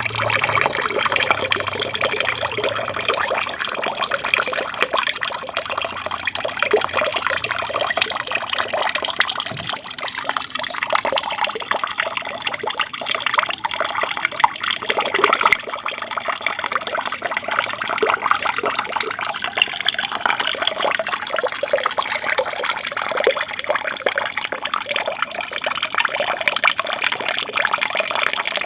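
Water from a small aquarium waterfall trickling and splashing steadily into the tank.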